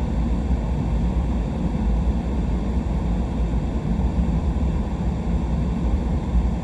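Steady low rumble of a truck driving slowly, with engine and tyre noise on a sanded winter road.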